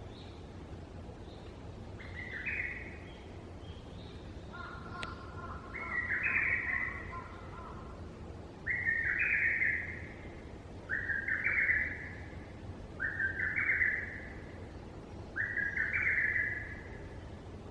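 A bird calling over and over: six similar calls of about a second each, a couple of seconds apart, with fainter, higher chirps in the first few seconds.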